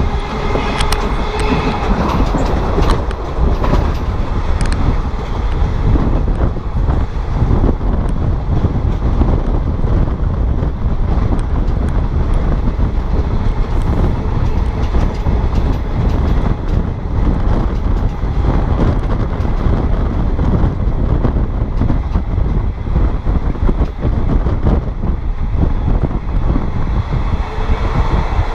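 Passenger train running on the rails, heard from aboard: a steady rumble of wheels with scattered clicks over rail joints.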